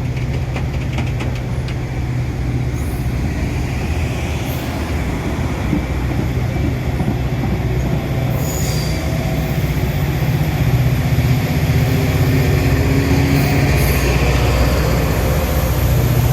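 Metra commuter train running, a steady low rumble that grows a little louder after about ten seconds.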